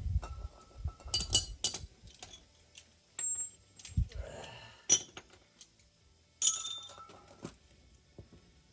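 Metal hand tools clinking and tapping against metal fittings in irregular short strikes, some with a brief ring, and a dull knock about four seconds in, while a loose fitting is being tightened.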